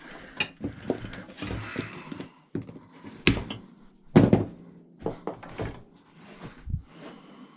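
Scrap metal pieces handled and dropped into buckets during sorting: a string of clunks and metallic clatters, with the loudest knocks about three and four seconds in.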